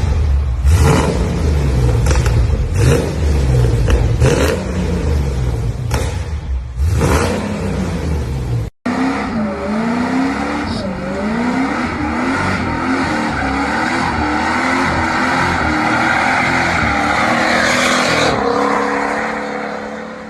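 A high-performance car engine revving hard. Its pitch sweeps up and down again and again, and it builds up and then falls away near the end. The first part, before a cut, is a heavier low rumble broken by sharp cracks.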